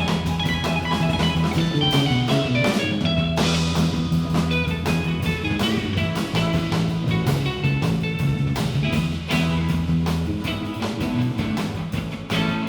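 Live band playing an instrumental passage without vocals: guitar lines over a held bass and a steady drum beat.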